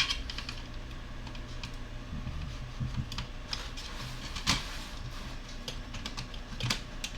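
Irregular sharp plastic clicks and small snaps from a laptop's case being pulled apart by hand, with one louder click midway. The parts come apart stiffly.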